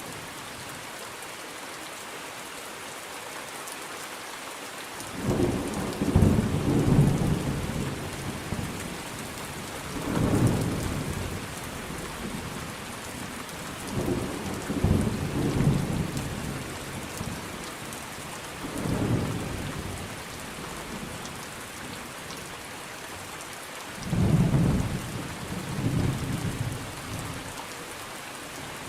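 Steady heavy rain with repeated rolls of thunder: low rumbles swell and fade about five times, the longest around a quarter of the way in and the last near the end.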